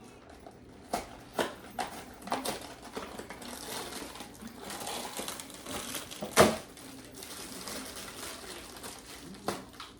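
Scattered knocks and clatter of household objects being handled indoors, several light knocks in the first few seconds and one sharp, loud knock about six and a half seconds in.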